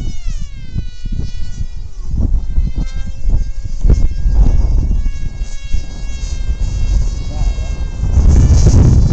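Electric motor and propeller of a Ritewing Lightning 36 RC flying wing whining in flight, its pitch falling in the first second or so and then holding fairly steady. Wind buffets the microphone, strongest about four seconds in and again near the end.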